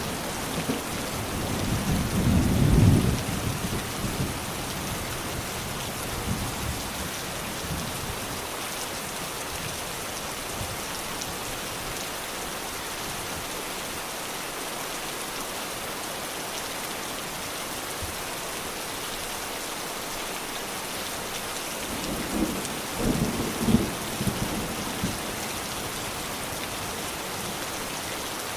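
Steady rain falling, with low thunder rumbling twice: once a couple of seconds in, and again about three-quarters of the way through.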